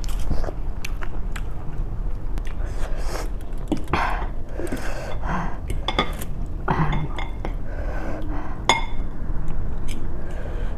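Eating sounds: a spoon or fork clinking against a bowl and dishes, several sharp clinks, with chewing and mouth sounds in between, over a steady low hum.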